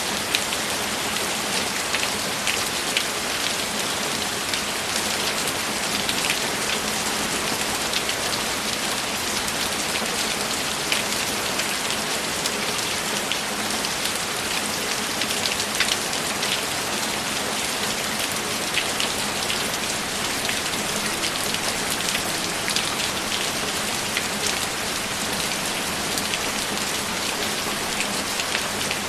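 Steady heavy rain, an even hiss with many individual drops ticking sharply through it.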